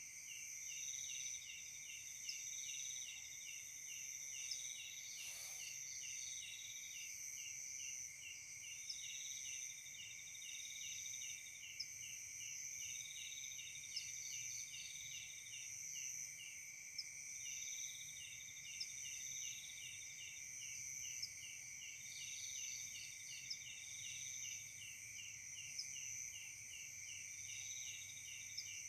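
Night chorus of crickets and other insects: several steady high-pitched trills at different pitches, with one insect chirping in a rapid, even pulse and another trilling on and off every few seconds. Short high ticks break through now and then.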